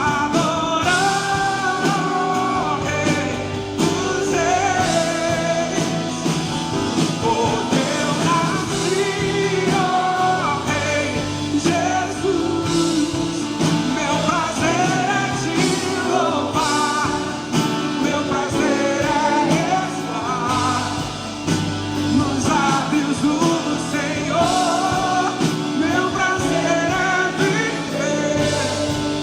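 Live gospel worship song: a lead vocal sung over a full band with bass and drums.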